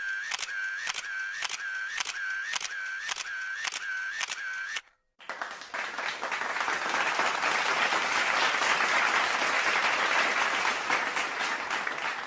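A sound-effect clip of rhythmic clicks, about two a second, each with a short tone; it stops after about five seconds. Then crowd applause starts and swells.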